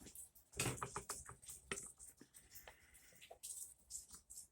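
Scattered light clicks and taps of small tools and parts being handled on a workbench, in an irregular rhythm.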